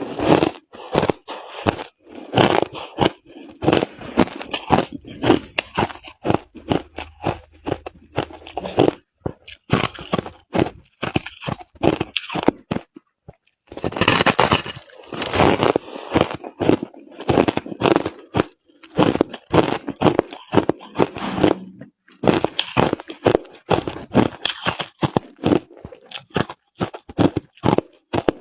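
Crushed ice being chewed, with rapid, loud crunches in dense runs. The crunching breaks off briefly about 13 seconds in and again about 22 seconds in, then starts again.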